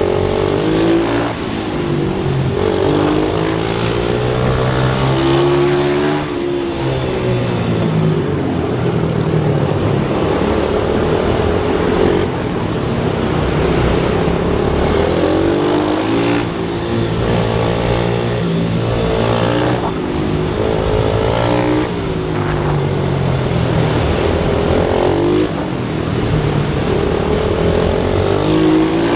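Pit bike engine revving hard and easing off again and again, its pitch climbing and dropping every few seconds as the bike accelerates and slows around the track.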